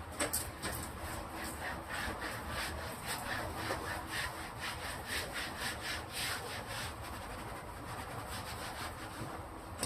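Rhythmic rubbing strokes of a cloth or sponge wiping down a refrigerator part, about three strokes a second, thinning out in the last few seconds.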